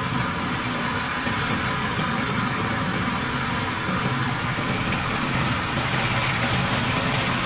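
An engine running steadily, a continuous drone with a hiss over it and no change in speed.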